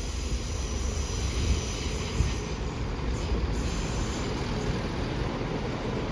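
A train running past with a steady rumble, and faint high-pitched tones that stop about three and a half seconds in.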